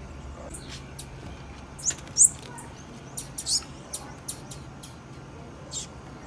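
Female blue-black grassquit (tiziu) giving short, high chip calls at irregular intervals, some as quick upward sweeps, the loudest a little after two seconds in, over a faint low steady hum.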